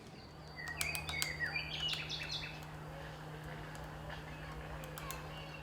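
Birds chirping: a quick cluster of short chirps and clicks about one to two and a half seconds in, then fainter calls, over a low steady hum.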